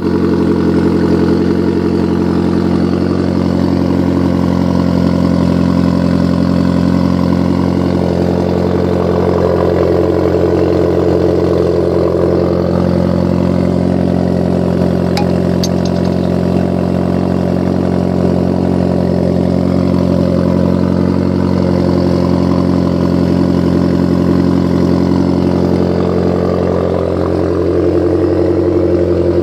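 Abarth 500 SS engine idling from a cold start through an Asso exhaust, running steadily with no revving. A faint click sounds about halfway through.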